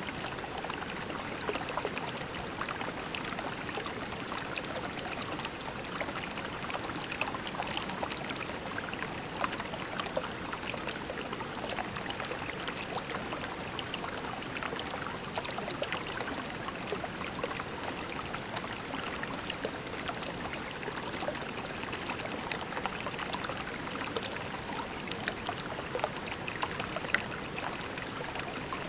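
Shallow creek water flowing over pebbles: a steady babble of running water, full of small splashes and gurgles.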